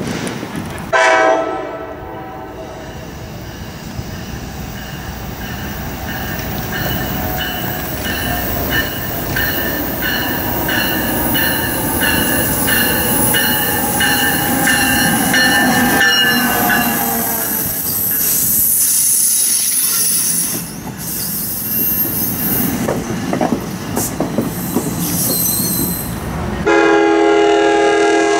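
A train passes and sounds its horn in a short blast about a second in, then again for about two seconds near the end. In between there is steady rail running noise, with a high tone repeating about every three-quarters of a second through the middle.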